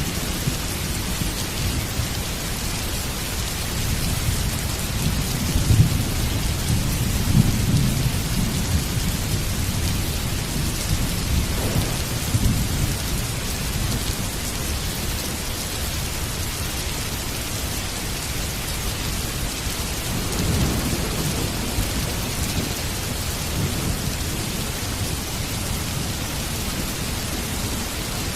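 Heavy rain falling steadily, with low rolling thunder that swells several times, loudest a few seconds in.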